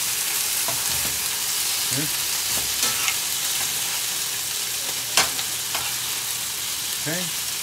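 Skin-on chicken thigh pieces sizzling steadily in hot oil in a stainless steel skillet, stirred with a metal spoon that clicks against the pan a few times.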